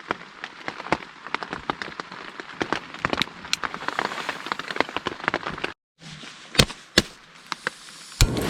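Rain falling on a tent: many sharp drop taps over a steady hiss. A brief dropout comes about six seconds in, after which the taps are fewer and louder.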